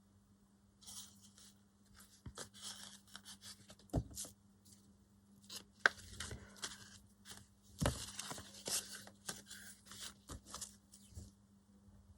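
Scissors cutting through craft material in a run of rasping snips, with handling rustle and a few sharp knocks on the work surface.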